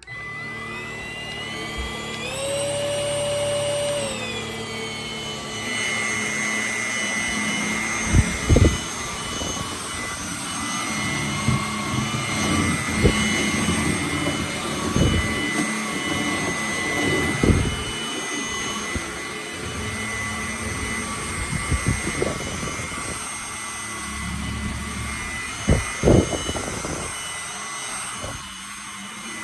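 MBYULO cordless stick vacuum's motor spinning up, its whine rising in pitch over the first few seconds, then running steadily with a high whine. Occasional sharp clicks and rattles come through it.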